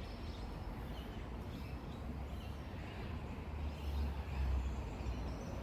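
Birds chirping faintly and intermittently over a steady low rumble, which swells about four seconds in.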